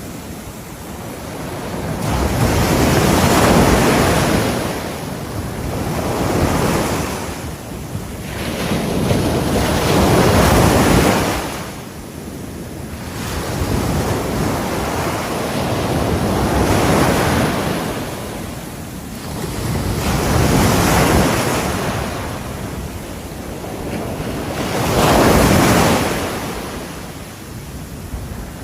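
Ocean waves breaking on a shore, the surf rising and falling in repeated surges every three to four seconds.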